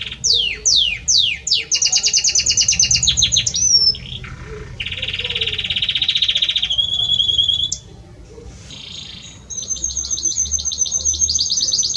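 Male Belgian canary singing a courtship song to his hen. It opens with four quick falling whistles, then runs into long, fast trills and rolls, with a brief lull past the middle before another fast trill.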